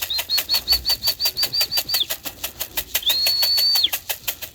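A steady rhythmic rattle, about five strokes a second, with a high whistle-like tone over it: first a run of short chirps, then one longer held note about three seconds in. These are the keeper's signals calling pigeons down into the loft.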